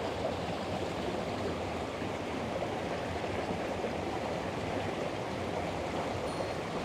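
Mountain stream water flowing, a steady rushing.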